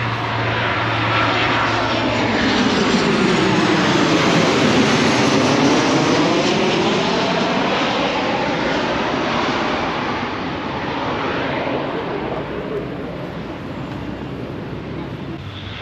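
Airplane passing low overhead: a loud engine noise that swells to a peak about five seconds in, then slowly fades as it moves away.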